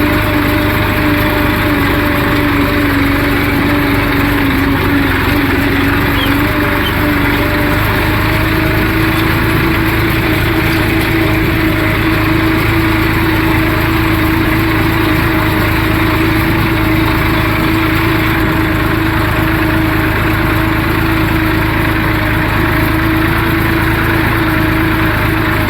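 Tractor engine running steadily under load while pulling a scraper blade across the field; its pitch rises slightly about eight seconds in and then holds.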